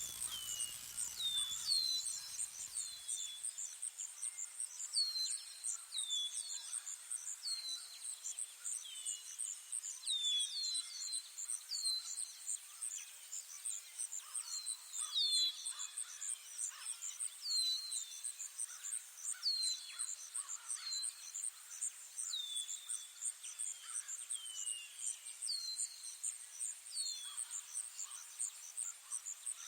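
An insect trilling steadily in a fast, high-pitched pulse, with a bird giving short, falling chirps every second or two.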